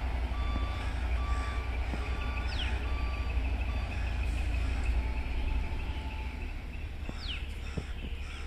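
Low rumble of a passing express train that eases off about two-thirds of the way through. Over it are repeated short high notes and three quick falling whistles, like bird calls.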